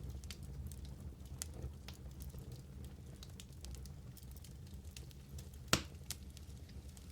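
Wood fire burning in a fireplace: sparse small crackles and pops over a low steady rumble, with one louder snap a little under six seconds in.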